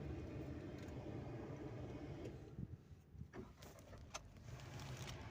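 Faint low rumble of a car, with a few light clicks a little past the middle.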